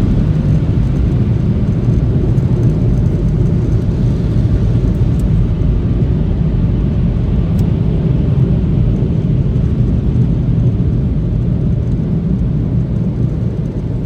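Automatic car wash machinery working over the car, heard from inside the cabin: a loud, steady rushing rumble that eases slightly near the end.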